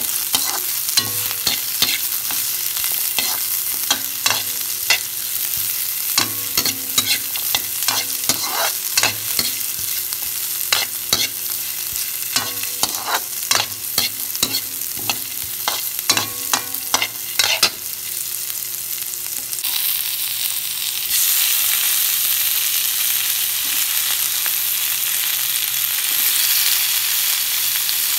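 Sliced onion and ginger sizzling as they sauté in a metal pan, with a utensil knocking and scraping against the pan as they are stirred. The stirring stops about two-thirds of the way through, leaving a steady sizzle that grows louder shortly after.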